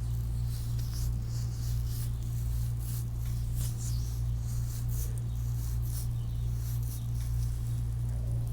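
Hands rubbing and stroking skin during a foot massage, close to wrist-worn microphones: a run of short, soft swishes and rubs, over a steady low electrical hum that is the loudest thing throughout.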